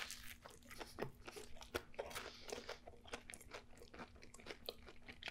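Close-miked chewing of a bite of toasted sandwich with crispy fried chicken, bacon and onion rings: many small, quick crunches and clicks, fairly faint.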